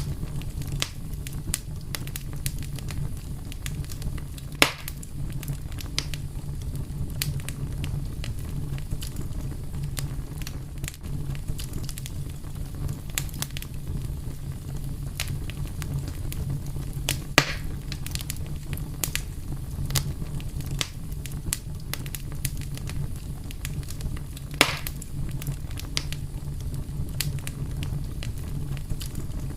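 Fire crackling, with frequent small crackles over a steady low rumble and three louder pops, about four seconds in, just past halfway and near the end.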